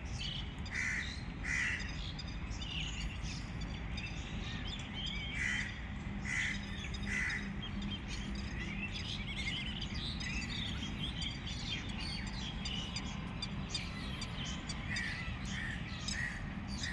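Birds calling in short calls, in small groups of two or three, over a steady low background noise.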